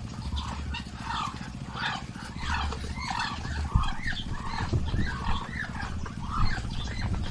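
Small birds chirping and peeping in many short overlapping calls, several a second, over a steady low rumble.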